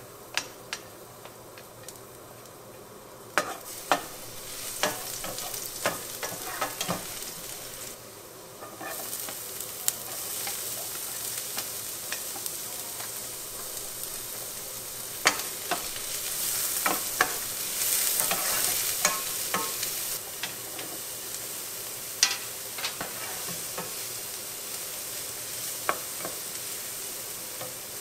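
Garlic, onion and cherry tomatoes sizzling as they fry in oil in a nonstick pan, stirred with a wooden spatula that gives many short sharp knocks against the pan. The sizzle gets louder in steps, about three and a half and nine seconds in, as more goes into the pan.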